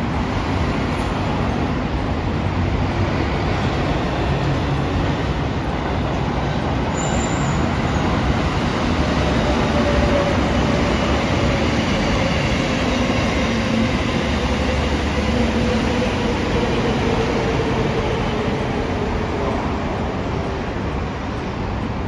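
A train running by on the rails: steady wheel-and-rail noise that swells slightly near the middle and eases toward the end, with a faint tone slowly falling in pitch in the second half.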